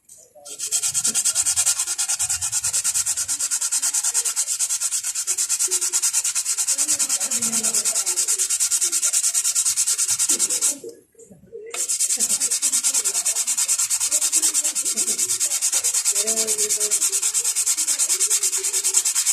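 Brake pad being sanded on 120-grit sandpaper in rapid back-and-forth strokes, in two long spells with a brief pause about eleven seconds in. The pad face is uneven and is being ground level.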